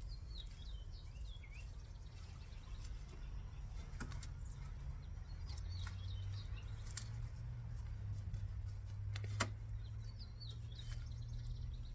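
A small songbird chirping in three short bursts of quick high notes, near the start, about six seconds in and about ten seconds in. Over a steady low hum, with a few faint clicks and one sharp tick about nine and a half seconds in.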